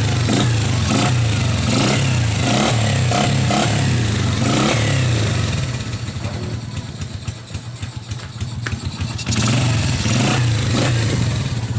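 Freshly overhauled Bajaj CT100's single-cylinder four-stroke engine running under load on a road test, its pitch rising and falling as it revs through the gears. It eases off about six seconds in and pulls hard again about three seconds later.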